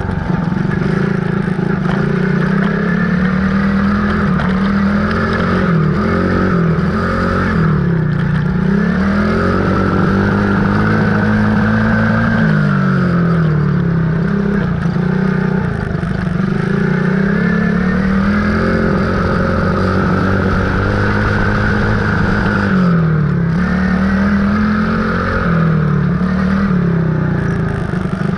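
Dirt bike engine running loud and steady while being ridden, its pitch falling and climbing again over and over as the throttle is eased and reopened.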